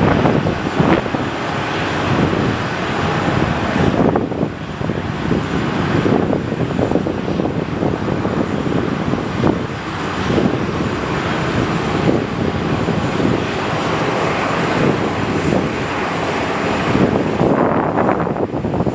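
Airliner engines running, a loud, steady rush of engine noise.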